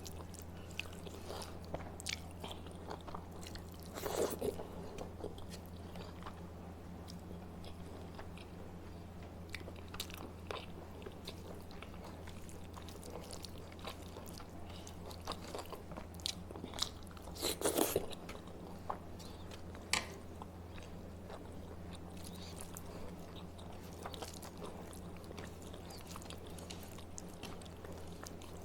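A person chewing and biting food close to the microphone, with scattered small clicks and two louder crunchy bursts, one about four seconds in and one near eighteen seconds, over a steady low hum.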